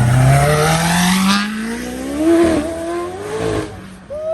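Sports car engine accelerating hard: the note drops at a gear change right at the start, then climbs steadily as the car pulls away and fades out near the end.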